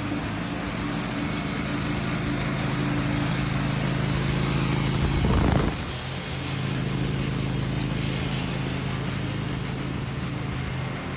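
Sawmill saw machinery running steadily, a motor hum with a high whine over it. It swells to a brief louder surge about five and a half seconds in, then settles a little quieter.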